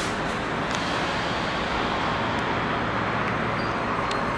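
Hankyu electric train moving along the station platform, a steady rush of wheel and running noise over a low rumble.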